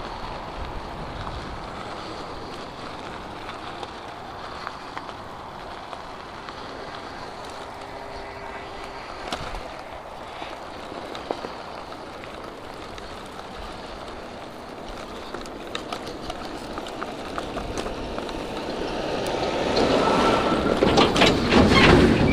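Wind buffeting the microphone over the tyre rumble of an electric bike riding a dirt farm track, with scattered small clicks and rattles. The noise grows louder and rougher over the last few seconds.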